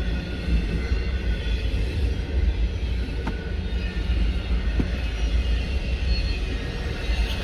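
Freight train rolling on the rails alongside, heard through an open car window over a heavy low rumble of road and wind noise, with a couple of faint clicks.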